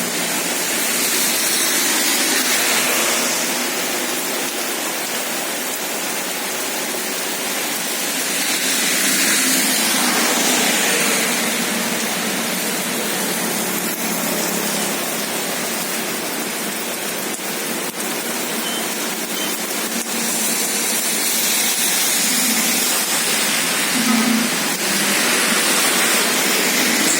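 Heavy rain falling in strong wind, a dense steady hiss that swells and eases in slow waves.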